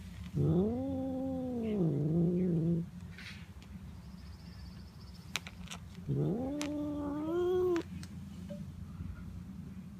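Domestic cat giving two long, drawn-out meows while being petted, about four seconds apart. The first rises, holds, then drops and wavers lower; the second climbs steadily and cuts off sharply.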